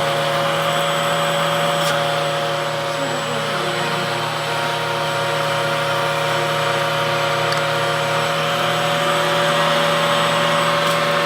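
Hoover vacuum cleaner motor running steadily, with a steady whine. Its hose is pulling strongly, which the owner takes as a sign of a clog in the filter or elsewhere in the vacuum.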